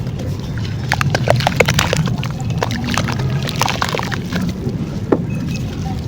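Dry crumbly clay crunching and crackling. A quick run of sharp crackles comes from about a second in to about four seconds in, over a steady low wet sloshing sound.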